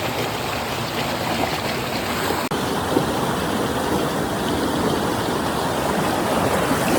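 Flowing stream water, a steady rushing and splashing, with a brief click and a slight change in tone about two and a half seconds in.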